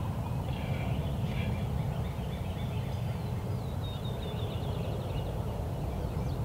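Turkey calls, with a quick run of rapid notes about four seconds in, over a steady low rumble.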